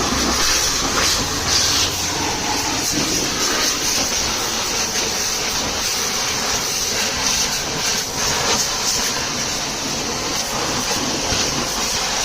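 Water jet spraying onto a truck, a steady hiss with small irregular splashing changes.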